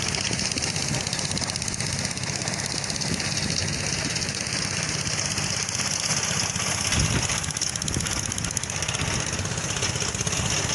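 An engine running steadily at an even speed, with a rapid fine pulsing throughout.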